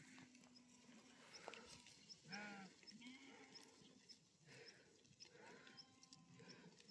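Faint bleating of livestock: a few short calls, the clearest about two seconds in, with faint high chirps about twice a second.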